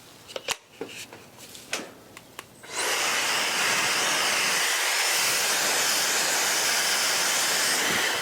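A few clicks, then a LettreQ blow dryer switches on a little under 3 seconds in: it spins up into a loud, steady rush of air with a faint high whine, powerful, and winds down as it is switched off near the end.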